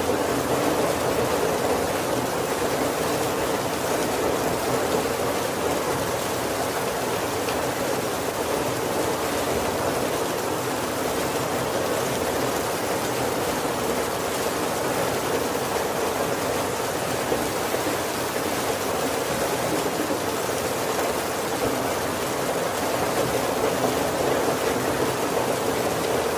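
Heavy rain falling steadily on the roof and windows of a wooden carriage: an even, unbroken hiss with no thunder.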